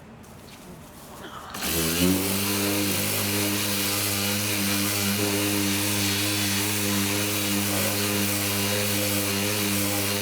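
An electric power tool motor, most likely a sander in the filler stage, is briefly off at the start. It spins back up with a rising whine about a second and a half in, then runs with a steady hum.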